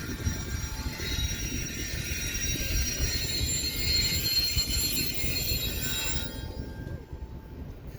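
Railcars of a passing train rolling over the track with a low rumble, their wheels squealing in several high, steady tones that cut off about six seconds in.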